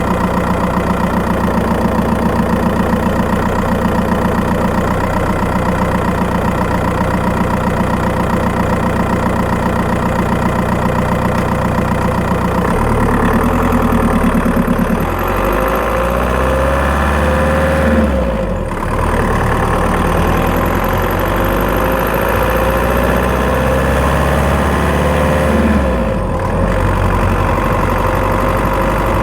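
Skoda Octavia 1.9 TDI PD diesel engine heard from the engine bay while driving. It runs steadily, then pulls harder from about halfway, rising in pitch, with two short dips where the revs drop back and climb again, like gear changes. The owner hears a chirpy ticking from the engine mainly under acceleration.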